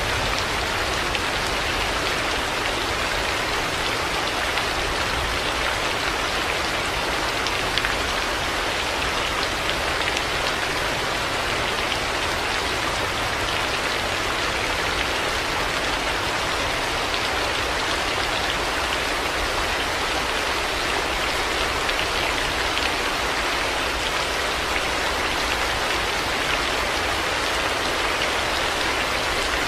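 Heavy rain falling steadily, an even hiss of drops on hard surfaces with no let-up or thunder.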